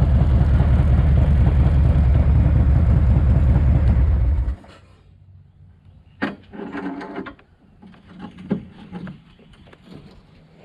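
Rebuilt S&S 107ci V-twin in a Harley-Davidson FXRT running steadily, then shut off about four and a half seconds in. A few faint clicks and knocks follow.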